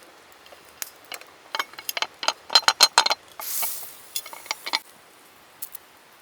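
Metal camp cookware being handled: a quick run of clicks and clinks, one ringing briefly, with a short hiss about three and a half seconds in.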